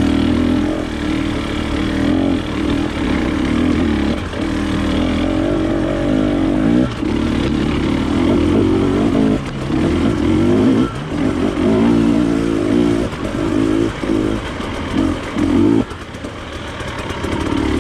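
Trail motorcycle engine running under load, its note rising and falling as the throttle is worked, with several brief roll-offs and a quieter spell near the end.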